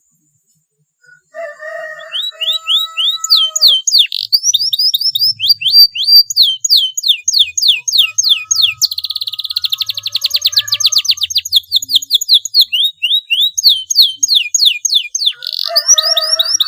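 Young canary practising its song: after about a second of silence, a string of quick downward-sweeping whistled notes, about three a second, breaking into a fast rolling trill around the middle before the sweeping notes resume. Lower held notes sound under the song at the start and again near the end.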